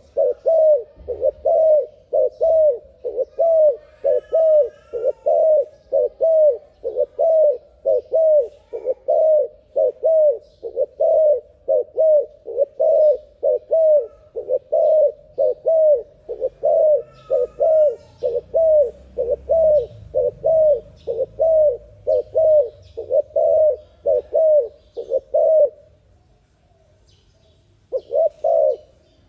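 Turtle dove (terkukur) cooing in a fast, even run of short coos, about two a second, pausing briefly near the end before starting again. Faint chirps of other birds sit above it.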